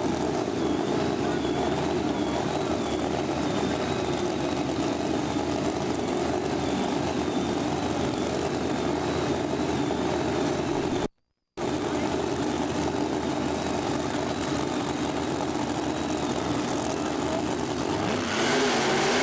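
Drag-racing car engines running at the track, a steady dense engine drone. It drops out completely for about half a second roughly eleven seconds in, and it gets louder and brighter near the end.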